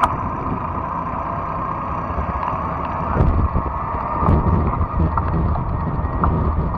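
Riding noise from a fat-tire electric bike: wind buffeting the microphone and tyre rumble on the trail, with a steady whine underneath and a few sharp ticks.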